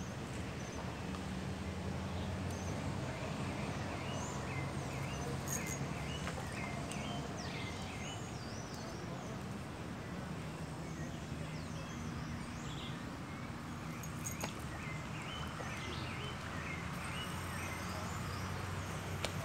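Outdoor lakeside ambience: a steady low hum under the air, with a bird calling in two runs of short repeated chirps, one over the first several seconds and another near the end.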